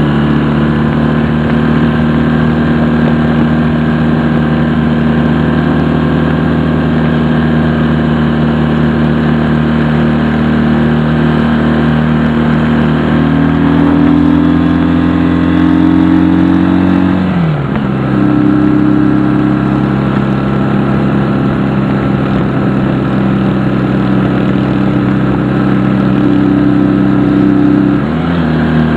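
Honda CD175 parallel-twin four-stroke motorcycle engine running steadily under way. Its note drops sharply a little over halfway through and climbs again near the end.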